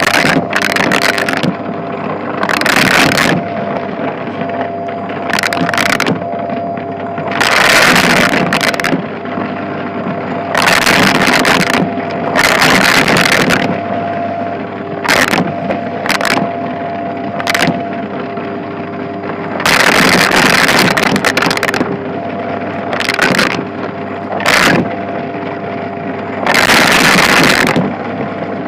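Shark vacuum cleaner running steadily on a shag rug, its motor humming with a few steady tones. About a dozen irregular louder bursts of rattling hiss break in as coins are sucked up.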